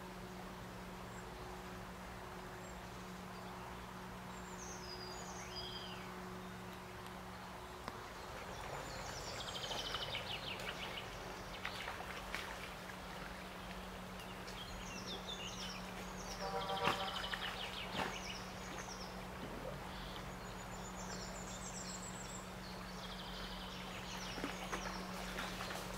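Small songbirds singing in short, repeated, chirping phrases, with one louder call past the middle, over a steady low hum and an even background rush.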